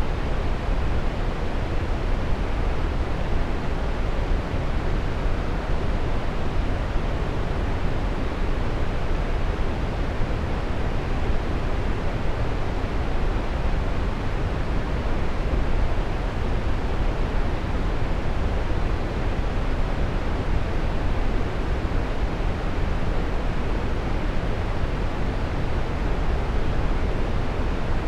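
Waterfall: a steady, even rush of falling water, strongest in the low end, with no change throughout.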